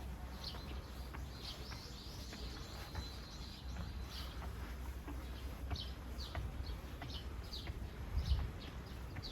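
Small birds chirping: quick, high, falling chirps repeated several times a second, with one longer held note about two seconds in. A steady low rumble runs beneath, and a few low thumps come near the end.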